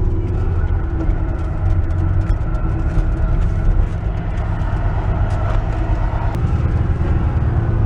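Porsche 911's flat-six engine running steadily while the car is driven, a continuous drone with road noise, running smoothly without popping.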